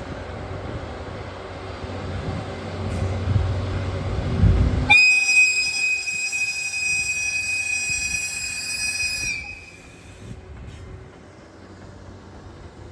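EF81 electric locomotive's whistle blown once in a long, steady high blast of about four and a half seconds, starting about five seconds in, as a courtesy whistle on departure. Before it, a low rumble of the train builds up; after it, a quieter rumble of the train moving off.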